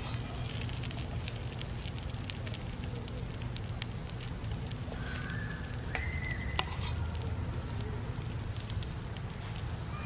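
Wood fire in a fire pit crackling and popping in scattered sharp clicks under burgers cooking on a grate, over a steady low rumble of the flames. A steady high tone runs behind it, and a short whistle-like tone sounds a little past halfway.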